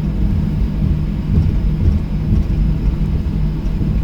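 Steady low rumble of a Boeing 737-800's CFM56-7B turbofans and airframe, heard from inside the passenger cabin, with a faint steady hum through it.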